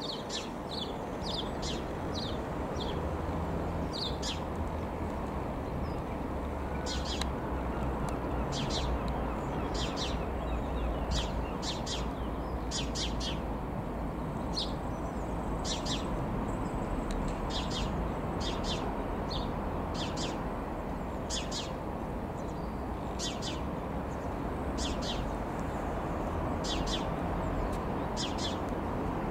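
Small birds chirping, short high chirps about once a second, some in quick pairs, over a steady low rumble.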